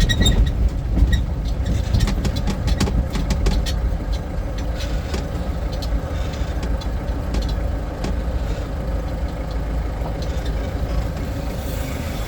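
Motor vehicle running: a steady low engine and road rumble with scattered light rattles, most frequent in the first few seconds.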